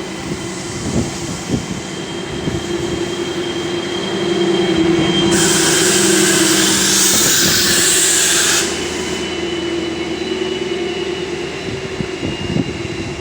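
Stadler FLIRT3 diesel train running with a steady hum. About five seconds in, a loud hiss of air lasts about three seconds, then cuts off. A few low thumps of wind gusting on the microphone.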